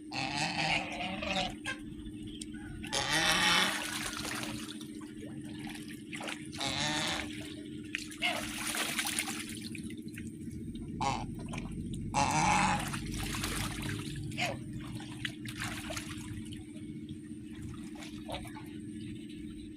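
Water splashing and pouring in irregular bursts, over a steady low hum.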